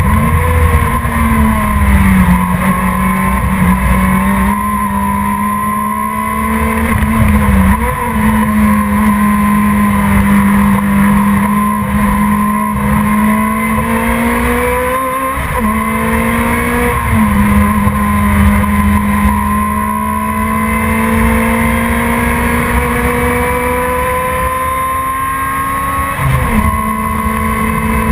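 Production sports race car engine running hard and steadily, its pitch creeping up and then dropping abruptly at gear changes, about five times.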